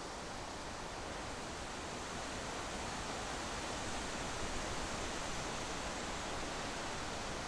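Steady rushing wind and road noise from a vehicle in motion, an even hiss with no engine note standing out.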